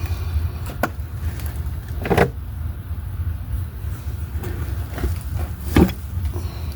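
A few sharp knocks and clunks from work with an engine hoist on an engine being lined up to its transmission, the loudest about two seconds in and another near six seconds, over a steady low rumble.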